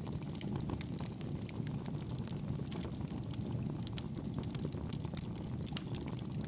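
Wood fire crackling in a fireplace: a steady low rumble of burning with frequent small, sharp pops and snaps throughout.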